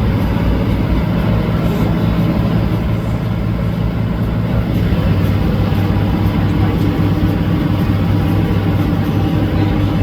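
Boat engine running steadily, a constant low drone over a rushing haze.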